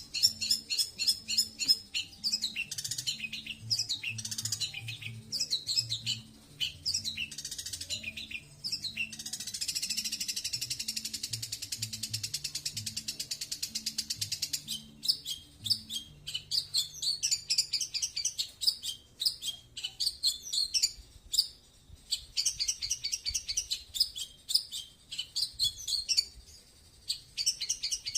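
Long-tailed shrike (cendet) singing a fast, chattering song of varied high notes. About ten seconds in it breaks into a long, rapid buzzing trill that lasts some five seconds before the chatter resumes.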